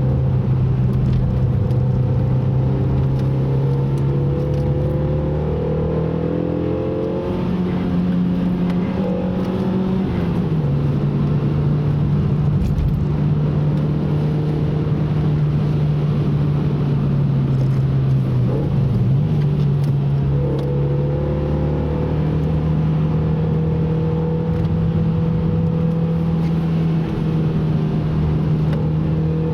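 Car engine running at steady revs while driving a lap, its pitch stepping up and down a few times as the throttle and gears change, over a constant noise underneath.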